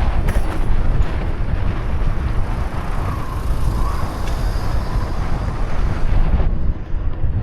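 Wind buffeting the microphone of a camera on a moving bicycle: a loud, uneven low rumble. The hiss on top fades out about six and a half seconds in.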